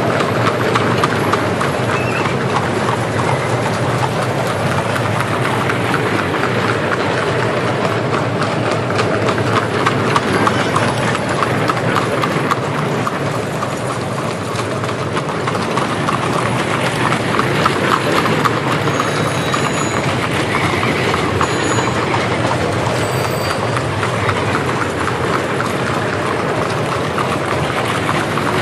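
Many horses' hooves clip-clopping, steady and continuous, over a constant rumbling street noise.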